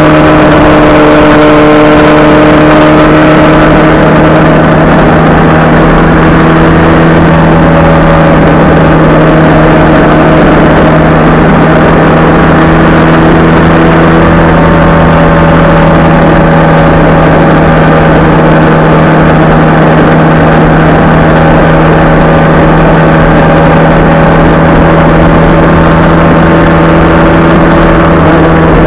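Motorcycle engine droning steadily at motorway cruising speed, picked up very loudly by a camera mounted on the bike, over a rushing rumble of wind and road noise. The engine note shifts slightly about halfway through.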